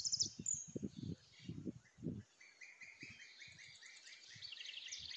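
Small birds chirping in quick repeated series, with a few soft low thumps in the first two seconds.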